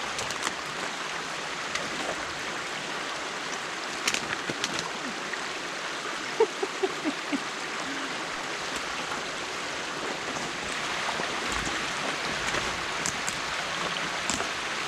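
Stream water rushing steadily, typical of water running through a beaver dam being opened by hand, with a few brief splashes or knocks about four seconds in and again around the middle.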